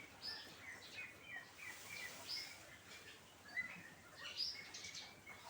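Several small birds chirping and tweeting in an aviary, short scattered calls overlapping one another.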